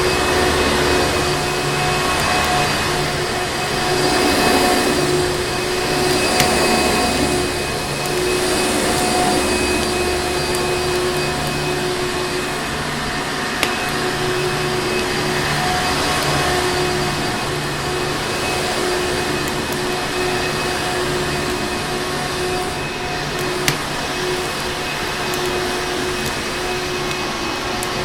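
Vacuum cleaner motor running steadily with a constant whine over a rushing hiss. A wood fire's sharp pops come through a few times.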